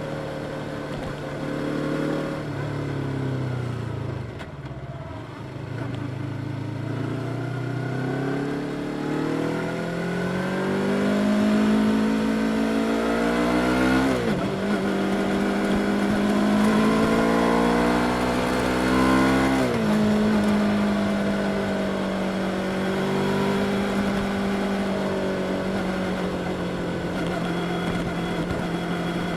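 Yamaha R25's 249 cc parallel-twin engine, heard from on the bike: it eases off, then pulls up through the revs with two upshifts a little after halfway, and settles at a steady cruising speed.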